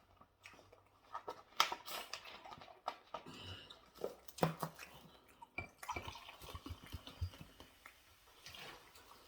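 Close-miked chewing while eating: irregular wet mouth smacks and clicks, with a few louder crunches.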